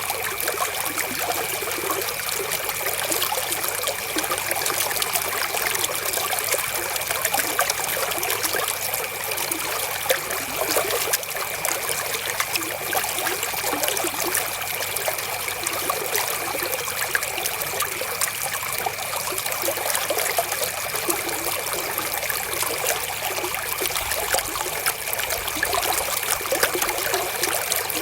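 River water flowing and trickling steadily, an even rush full of small splashes.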